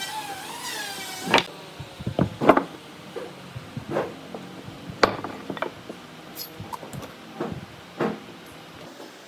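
A power tool's motor whine wavers and stops about a second and a half in, followed by scattered knocks and clacks of wooden workpieces being handled and set down.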